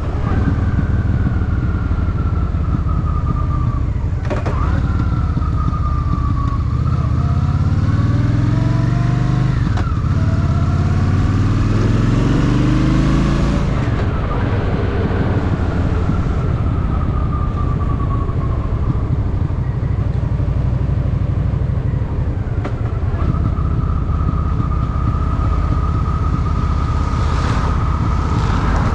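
Honda Shadow VT750 V-twin engine on the road, rising in pitch twice as it accelerates, with a short break between the rises, then dropping back about fourteen seconds in and running steadier at cruising speed.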